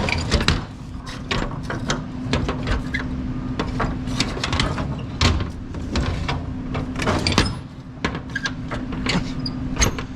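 Irregular knocks and clanks of gear being handled over a steady low hum, as of an idling truck.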